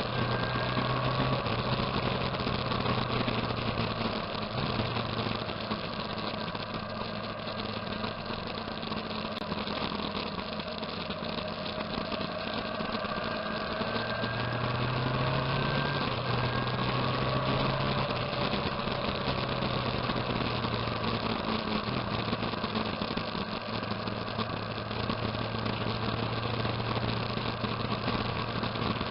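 Motorcycle engine running steadily, its pitch easing up and down slightly, over a constant rushing noise.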